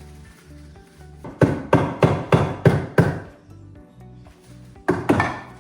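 Hammer blows on wood, building a timber prop to support concrete formwork: a run of about six strikes, roughly three a second, then a pause and three more near the end.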